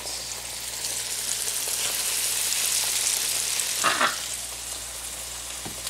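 Breaded zucchini slices frying in oil in a skillet: a steady sizzle with fine crackling that grows louder in the middle, with one short louder sound about four seconds in.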